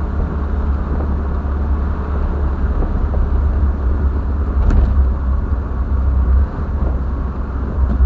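Car on the move: a steady, loud low rumble of engine and road noise from the 4.6-litre V8 Triumph TR7.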